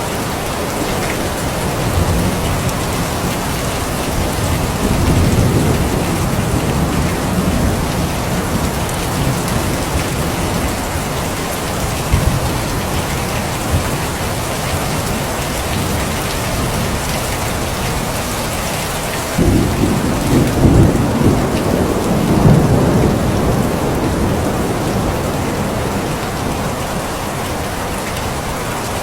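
Steady heavy rain falling, with low rolls of thunder: soft rumbles early on and a louder roll that starts suddenly about two-thirds of the way in and fades over several seconds.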